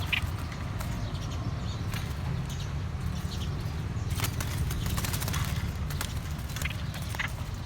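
Trapped wild birds moving and calling in a cage: scattered short, sharp chips and clicks at an irregular pace over a steady low rumble.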